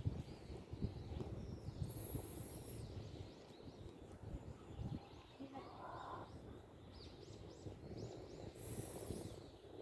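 Outdoor park ambience: small birds chirping over a low background rumble, with two brief very high-pitched sounds about two seconds in and near the end.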